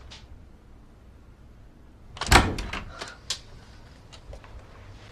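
A door being opened: a loud clack a little over two seconds in, then a few lighter clicks and knocks.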